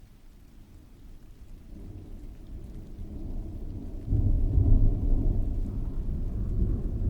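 Rolling thunder: a low rumble that builds from about a second and a half in, swells suddenly about four seconds in and stays heavy, over steady rainfall.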